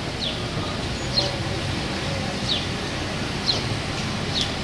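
Street traffic passing under a steady outdoor noise, with a bird giving short, high, falling chirps about once a second.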